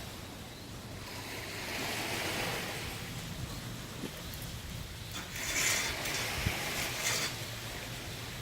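Sea surf on the beach: waves breaking and washing in, with a swell of rushing water early on and a louder hissing wash of surf about two-thirds of the way through.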